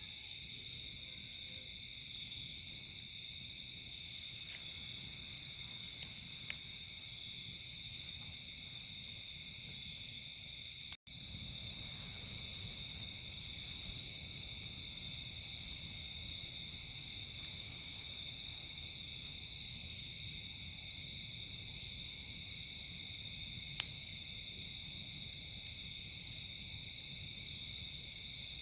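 Steady chorus of crickets and other insects, with a higher trill that comes and goes. Two sharp pops stand out, one about a third of the way in and one near the end, typical of a crackling campfire.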